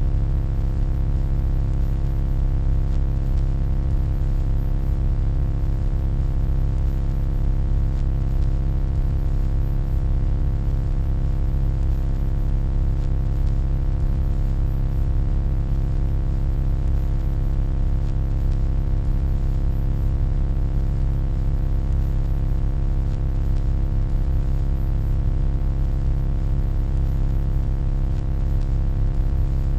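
Electronic humming noise: a steady low hum with a stack of faint higher tones over a light hiss, unchanging throughout.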